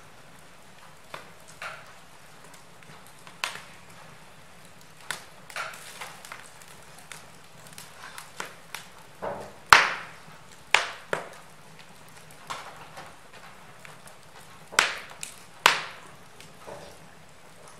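Wood fire in a fireplace crackling: irregular sharp pops and snaps over a faint steady hiss, the loudest snap a little past halfway.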